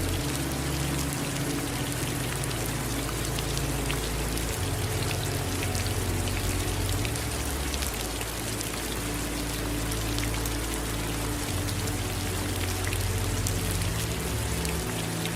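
Steady rain falling, with many separate raindrops pattering, over a low rumble underneath that shifts in level every second or two.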